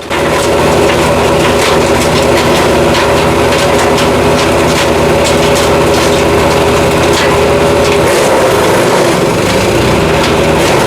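Jansen GTS-1500 small wood chipper running steadily under load as it chips black walnut wood, with frequent sharp cracks and snaps of the wood being cut. Its blades are part-worn.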